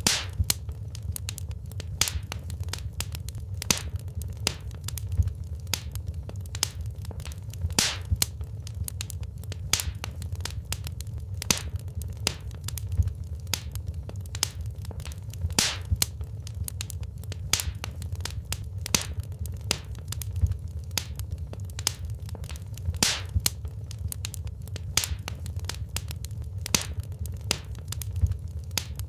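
Wood fire burning in a fireplace: a steady low rumble of flames under frequent irregular crackles and sharp pops of burning logs, a few pops louder than the rest.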